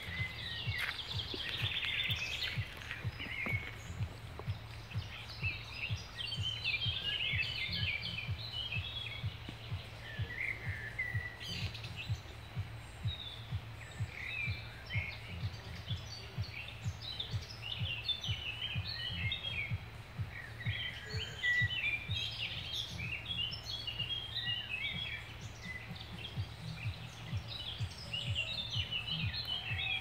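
Songbirds singing, quick chirping phrases one after another, over a steady low rumble.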